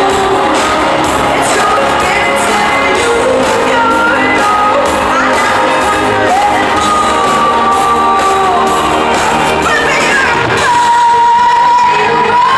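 Live pop concert audio in an arena: a female lead vocal sings over the full band backing, with the crowd shouting and whooping along.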